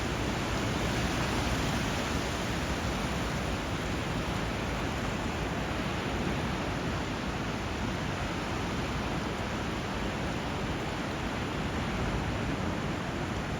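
Steady rush of moving water where a river flows into the sea: an even, unbroken wash of noise with only slight swells in level.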